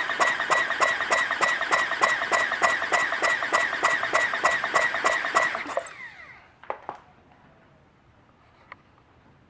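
Electric starter motor cranking the Honda GB250's single-cylinder engine: a steady whine with a fast, even pulsing of about five beats a second, stopping about six seconds in. A few single clicks follow.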